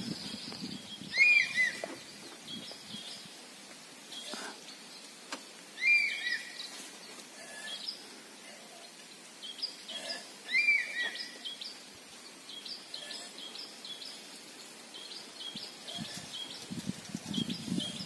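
Wild birds calling: a loud, short whistled call of two or three arching notes repeats about every four to five seconds, over lighter, higher chirping from other birds.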